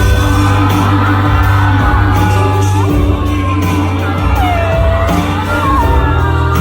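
Live ballad performance through a hall's sound system: one voice singing a slow melody with vibrato over backing music.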